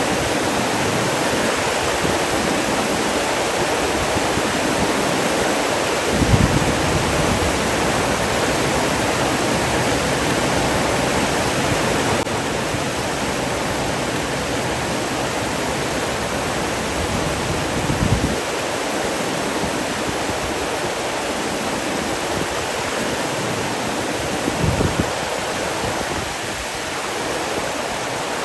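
Steady rush of flowing water, with three brief low thuds: about six seconds in, about eighteen seconds in, and near the end. The rush drops a little in level about twelve seconds in.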